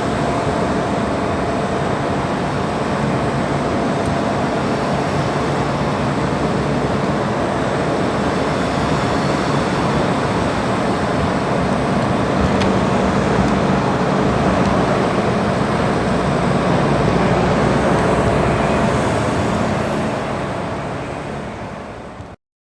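Steady engine or traffic noise with a faint steady hum, fading out over the last couple of seconds and then cutting off abruptly.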